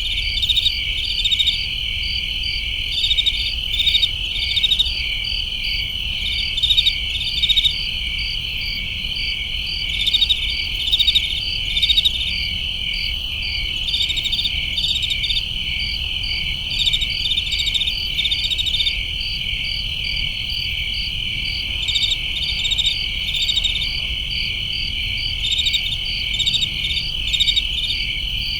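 Crickets chirping in a continuous chorus of rapid high-pitched pulses, with a steady low rumble underneath.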